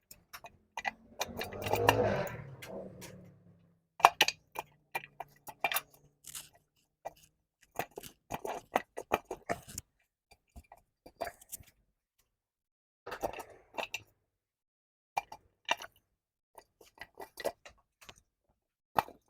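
Clicks, knocks and short metal scrapes as a bearing is pulled and worked back and forth out of a Mazda M5R1 manual transmission by hand, with a longer, louder rasp about two seconds in.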